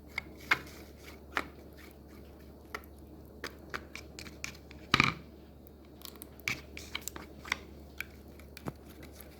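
A utensil stirring a honey, ketchup and lime juice sauce in a bowl: irregular clicks and taps against the bowl, with one louder knock about five seconds in.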